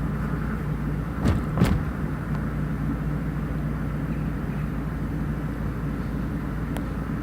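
Steady low rumble of a running vehicle, with two short sharp knocks about a second and a half in.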